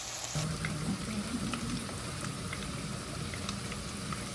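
Breaded chicken pieces deep-frying in hot oil: a steady sizzle with scattered small pops.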